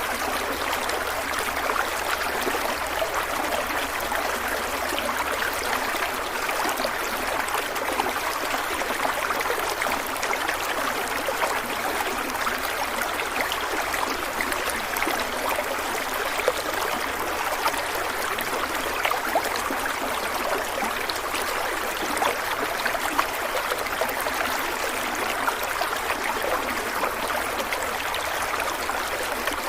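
Stream water flowing and splashing over rocks, a steady bubbling rush.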